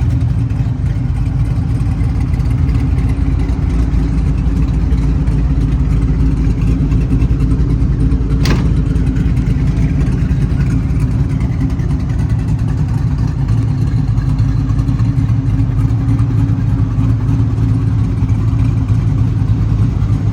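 Twin-turbo LS3 V8 idling steadily. A single sharp click sounds about eight and a half seconds in.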